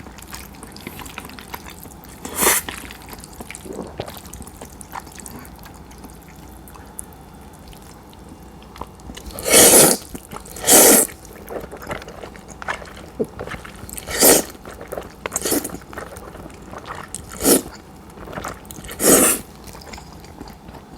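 Cold udon noodles being slurped in about seven short, wet slurps, the loudest two close together about halfway through, with quiet chewing between them.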